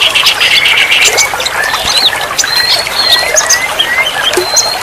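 Many songbirds chirping, whistling and squawking at once in a dense, overlapping chorus of short calls and quick pitch glides, over a steady hiss.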